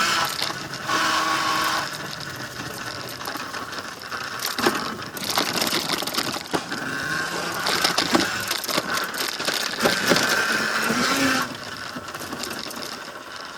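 Tuttio Soleil01 electric dirt bike's motor whining as it is ridden, coming and going with the throttle. Scattered knocks and rattles come from the bike going over roots and bumps.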